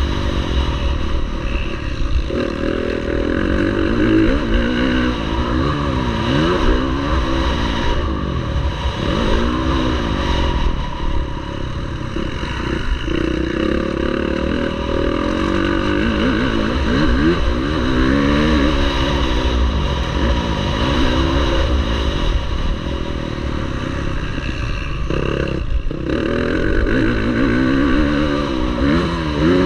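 Motocross bike engine racing, its revs rising and falling again and again every second or two as the rider opens and closes the throttle, with a steady low rumble underneath.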